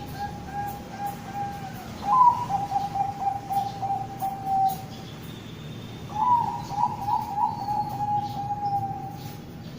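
Bangkok-type zebra dove (perkutut) cooing: a run of short, evenly spaced coos ends, then two long song phrases follow, about 2 and 6 seconds in. Each phrase opens on a higher note and runs into a quick string of lower coos.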